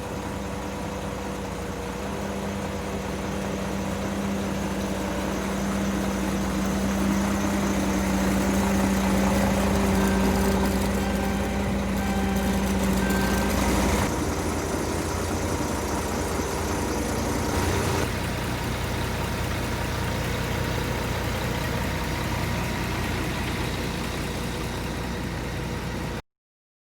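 Scania P380 truck's diesel engine idling steadily. The sound shifts abruptly about 14 and again about 18 seconds in, and cuts off suddenly near the end.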